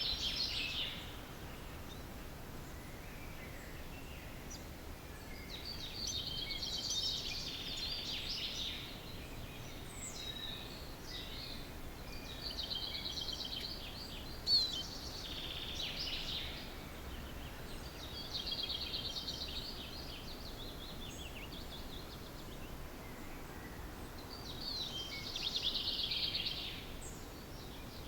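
Wild songbirds singing in a dawn chorus: a trilled song phrase of two to three seconds comes round about five times, several seconds apart, with fainter calls between and one sharp short note about halfway through, over a steady low background hum.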